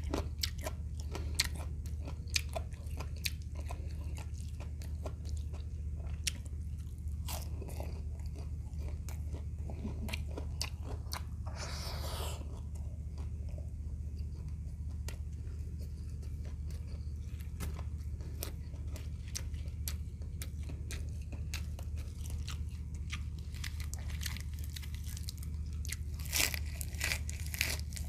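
Close-up chewing of crispy fried shrimp, with many small crunches. There is a short hiss about halfway, and louder crisp crunches near the end as a cucumber slice is bitten, all over a low steady hum.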